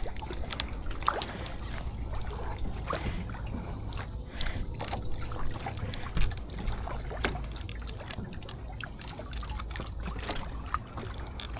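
Kayak paddle strokes in the water: irregular splashes and drips off the paddle blades, over a steady low rumble of wind on the microphone.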